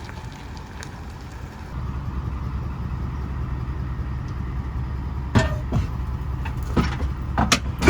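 Truck engine running steadily as it backs up, getting louder about two seconds in. Several sharp knocks near the end, the last the loudest.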